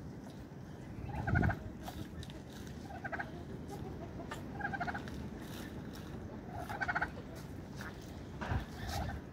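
Domestic poultry calling in short pulsed calls, about one every one and a half to two seconds, with scattered clicks in between.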